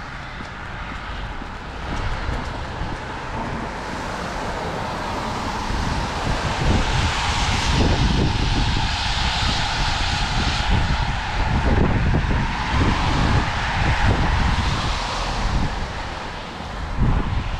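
Road traffic passing on a wet road: a hiss of tyres that swells to a peak midway and fades again. Wind buffets the microphone with gusty rumbles throughout.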